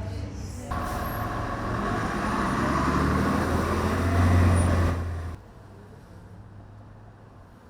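Road traffic noise with a low engine rumble, growing louder and then cutting off suddenly about five seconds in, leaving a faint hiss.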